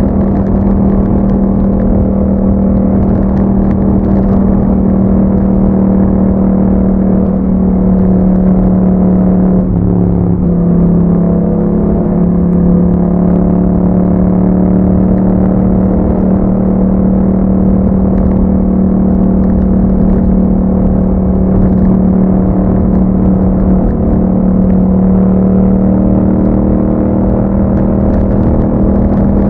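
Yamaha MT-07's 689 cc parallel-twin engine, breathing through an Akrapovic exhaust with a dB killer, running at a steady cruising speed while the bike is ridden. The engine note holds almost constant, dipping briefly and picking up again about ten seconds in.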